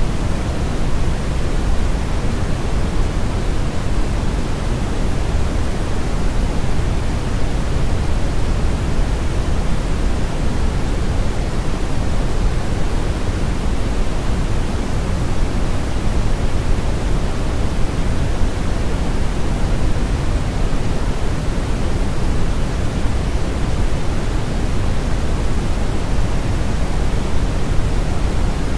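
Steady brown noise: an even, unchanging rush with most of its energy in the deep low end and the highs rolled off, like a river current or strong wind.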